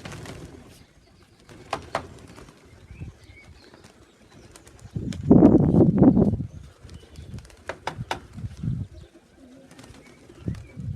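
Young racing pigeons cooing around the loft, with scattered clicks and a louder burst of sound lasting about a second and a half, around five seconds in.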